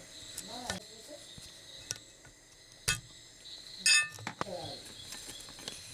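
Two sharp metal knocks about a second apart, the second one louder and ringing briefly like a clink, over a steady high insect shrill and a few short rising-and-falling calls.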